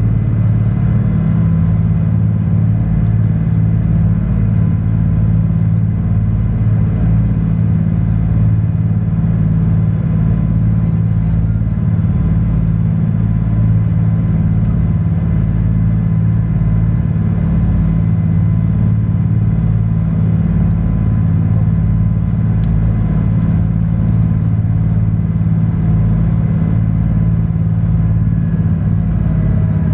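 Sightseeing cruise boat's engine running steadily, a loud low hum that does not change, heard on board.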